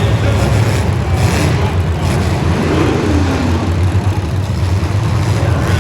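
Motor vehicle engine running, a steady low rumble under broad noise, with a brief rise and fall in pitch about three seconds in.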